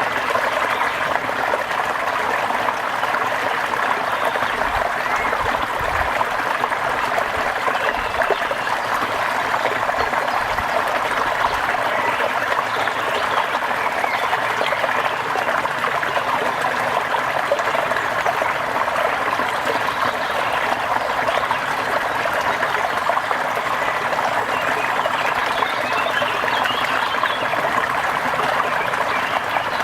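Steady rain falling: an even, continuous hiss of fine splashes with no change in level.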